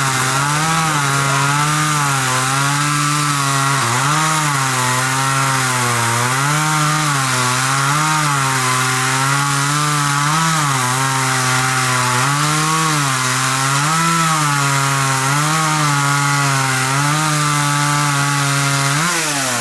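Two-stroke chainsaw running at high revs while cutting into wood, its engine note sagging briefly about once a second as the chain bites under load. Right at the end the revs drop away sharply.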